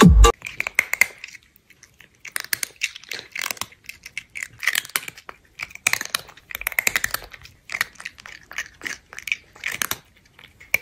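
Electronic dance music cuts off right at the start. Then comes crunchy chewing of crisp fried shrimp tempura: irregular crunches and bites with short pauses between them.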